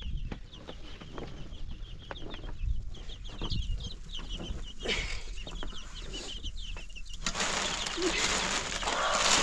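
Chickens calling, a quick stream of short, high chirps and clucks. About seven seconds in, a louder steady rushing noise takes over.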